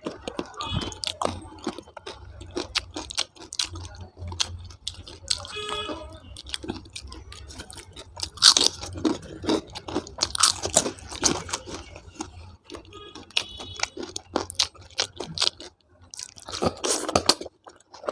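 Close-miked chewing and crunching of food, in irregular bites, over a steady low hum.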